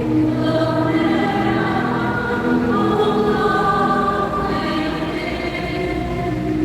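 Choir singing a hymn in long, held notes.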